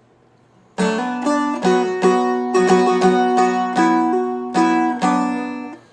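A Seagull Merlin M4, a four-string fretted stick dulcimer, is picked through a short phrase of melody. The notes come in one after another, starting about a second in, over a drone note that keeps ringing beneath them.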